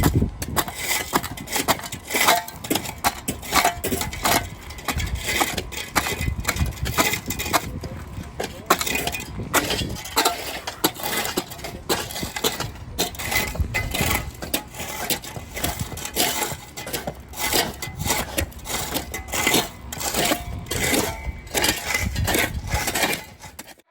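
Roof gravel being scraped up and shovelled off a flat roof: a dense, irregular run of gravelly scrapes and stones clattering.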